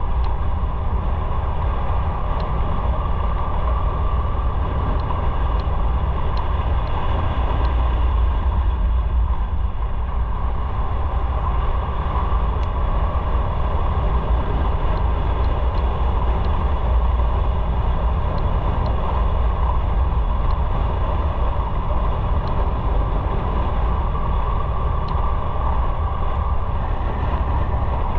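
Motorcycle being ridden: a steady engine drone with deep rumbling wind noise, holding an even level throughout.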